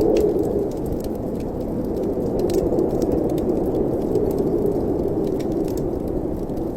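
Wind moaning through a fireplace chimney, a low hollow rush that eases about a second in and swells again, with scattered crackling clicks from the fire.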